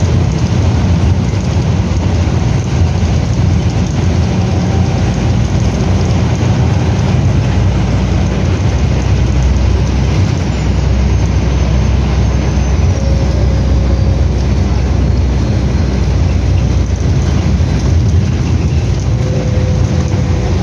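Scania F360HA biarticulated bus's diesel engine running with a steady low drone, with road and body noise. A faint high whine falls in pitch about halfway through.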